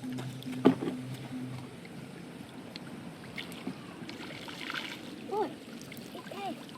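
Water splashing and trickling as someone works by hand in shallow water catching fish. Background music ends about a second in.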